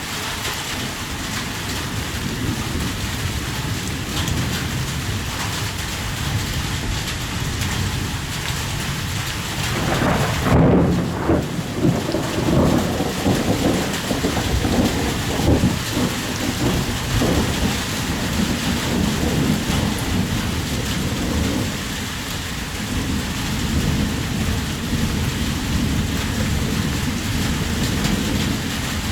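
Heavy rain falling steadily. About ten seconds in, a rumble of thunder swells up and rolls on for roughly ten seconds before fading back under the rain.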